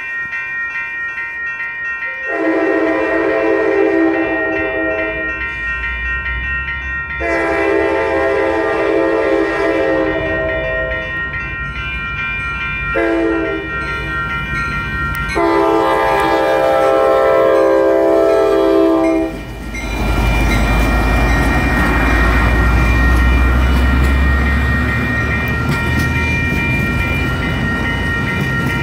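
Two electronic railroad-crossing bells ring steadily while the approaching Amtrak train's lead locomotive sounds the grade-crossing horn signal: two long blasts, a short one, then a final long one. About twenty seconds in, the train reaches the crossing and the rumble and clatter of its bilevel passenger cars takes over, with the bells still ringing.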